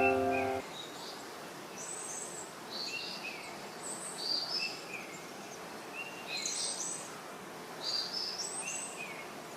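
Birds calling in short, repeated chirping phrases about every two seconds over a steady rush of water from the waterfall. Piano music ends just under a second in.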